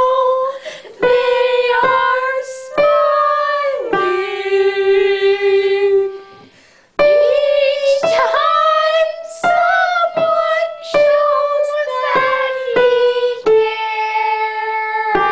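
A woman singing a slow melody in long held notes over piano accompaniment. About six seconds in, a long note fades away, then the singing picks up again.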